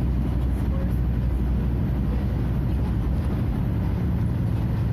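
Scania F250HB bus's DC09 five-cylinder diesel engine running under way in a steady drone. About three and a half seconds in, its note shifts and the engine picks up speed.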